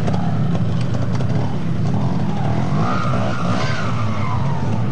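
Trials motorcycle engine revving over a steady low rumble, its pitch climbing and then dropping back about halfway through as the rider works the bike up a muddy section.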